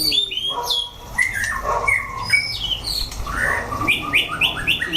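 Several caged white-rumped shamas singing at once: varied, overlapping whistled phrases, with a quick run of about five down-slurred notes near the end.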